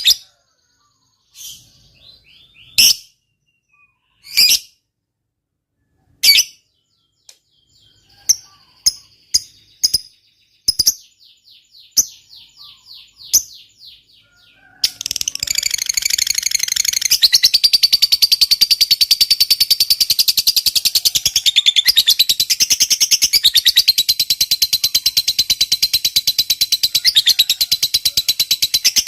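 Lovebird calling: a few separate sharp, high chirps, then about halfway through a long, unbroken, very rapid chattering trill, the 'ngekek panjang' long chatter prized in fighter lovebirds.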